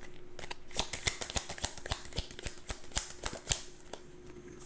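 Tarot cards being shuffled by hand: a quick run of soft clicks and riffles that thins out after about three and a half seconds.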